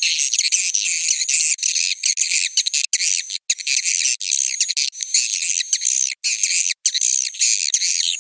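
Swiftlets twittering: a dense, steady chatter of high chirps with nothing low underneath, dropping out briefly a few times. This is a swiftlet 'roosting call' lure recording, played in swiftlet nest houses to draw the birds in to roost.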